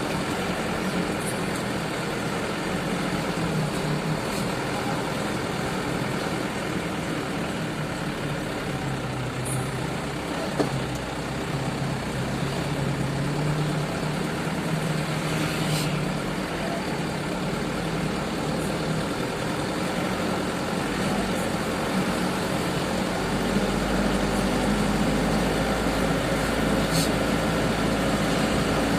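Heavy sugarcane truck's engine running steadily at low revs, its note drifting up and down, with a single knock about ten seconds in; the engine grows deeper and slightly louder near the end.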